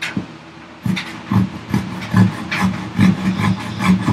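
Gyokucho Japanese razor saw cross-cutting a thick wooden block by hand, cutting on the pull stroke. Short, quick strokes start about a second in and run at two to three a second.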